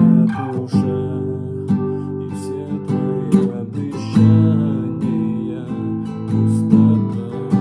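Acoustic guitar music: chords strummed and picked, with no singing.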